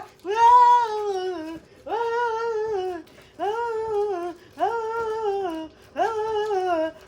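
A voice wailing over and over: about five drawn-out cries in a row, each about a second long, rising quickly and then sliding down in pitch.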